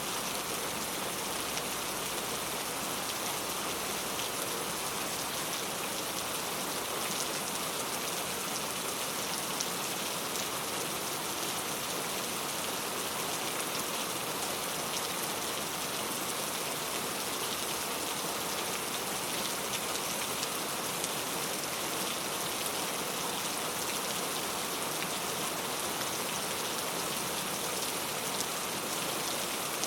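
Heavy rain falling steadily on mango tree leaves, a dense even patter with fine drop ticks.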